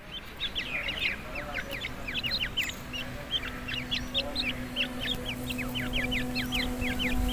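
Many partridges chirping together in a breeding pen, a dense stream of short, high, downward-sliding calls overlapping without pause. A steady low hum runs underneath from about two seconds in.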